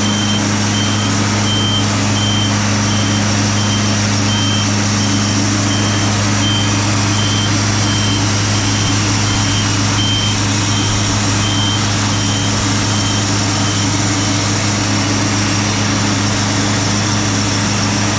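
Wood-Mizer LT40 Super Hydraulic bandsaw mill running steadily, its engine humming as the band blade saws through a Sitka spruce log. A short high beep repeats about every two thirds of a second and stops near the end.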